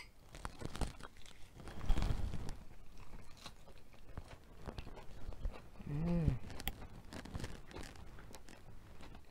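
Close-up crunching and chewing of a lettuce leaf wrapped around sautéed spinach and mushrooms, with the loudest crunchy bite about two seconds in. A short hummed "mm" of enjoyment about six seconds in.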